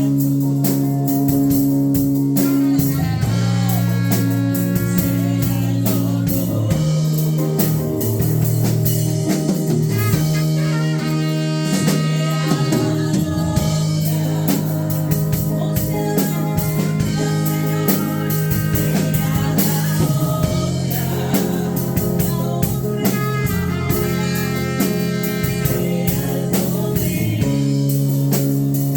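Live praise and worship music: a band with drum kit and guitar playing sustained chords over a steady beat, with some singing.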